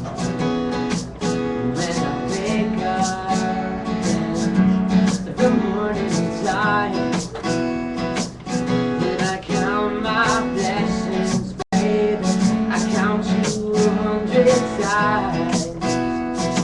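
Acoustic guitar strummed in a steady, even rhythm, with a wavering melody line playing over it at times: an instrumental break between verses of a live song.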